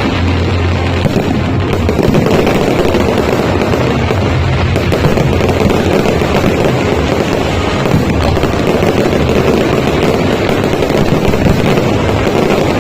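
Fireworks crackling and bursting in a dense, continuous barrage, mixed with music.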